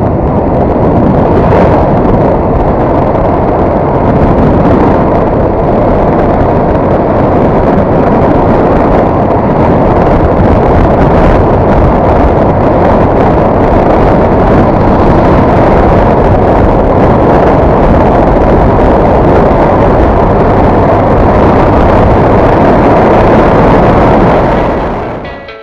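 Loud, steady rush of wind and road noise from a moving Honda MSX 125 motorcycle, the wind battering the microphone. It fades out near the end.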